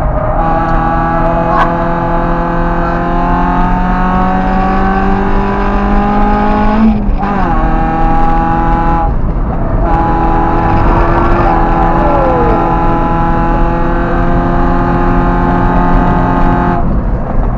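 A car engine heard from inside the cabin at full throttle on a race track, its revs climbing steadily in a long pull. The pitch drops sharply about seven seconds in at a gear change. There is a brief lift about nine seconds in, then the engine holds high revs until the driver lifts off near the end.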